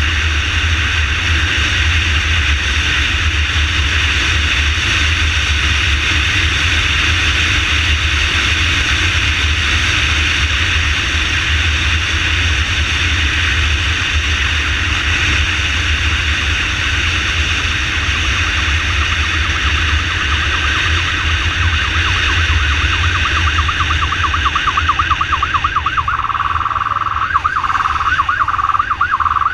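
Ambulance motorcycle riding at speed, its engine and a heavy wind rush loud on the microphone. Its siren comes in about six seconds before the end with a fast warble.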